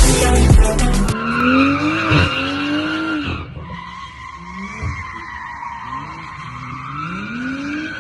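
Music stops about a second in. Then a BMW M340i's turbocharged straight-six revs up and down while its rear tyres squeal continuously in a drift, the revs climbing and holding near the end.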